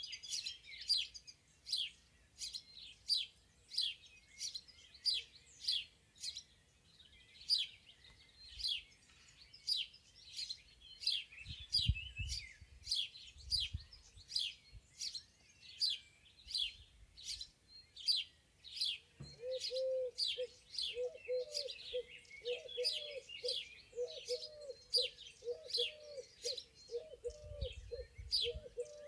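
Spring woodland birdsong: songbirds chirping steadily, two or three quick, high, falling notes a second. About two-thirds of the way in, a low, repeated cooing call joins underneath.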